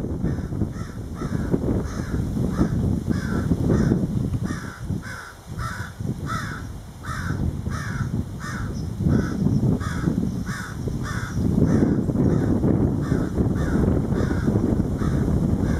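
A bird calling over and over in an even series, about three short calls a second, over wind buffeting the microphone.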